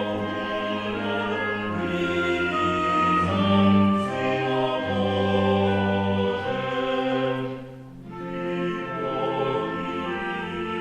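Choir singing sustained chords of early Russian music with instrumental accompaniment, with a short lull about eight seconds in before the music resumes.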